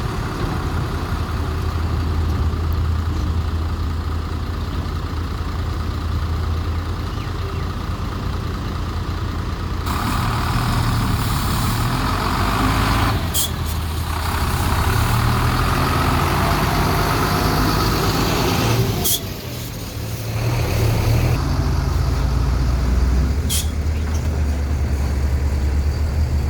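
Daewoo 170W-3 wheeled excavator's diesel engine running steadily, then revving up under load for about ten seconds in the middle as it works, before settling back. A few short sharp clacks cut through, about three in all.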